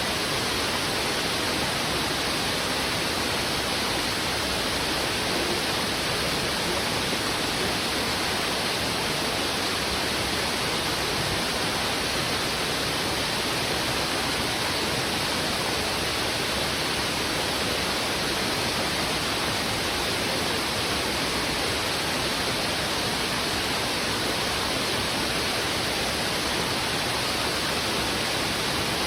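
Heavy river water rushing over rocks in a strong current, a steady, unbroken rush with no distinct splashes or calls standing out.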